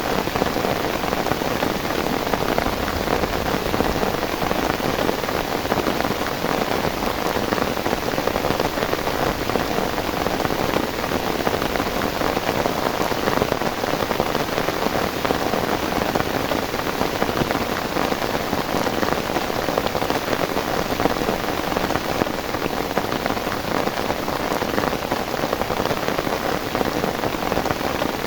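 Heavy rain falling steadily, an even unbroken wash of drops with no let-up.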